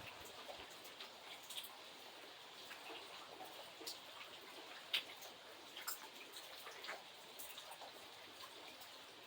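Light rain falling, a soft steady hiss with individual drops ticking irregularly on a surface, one sharper drop about five seconds in.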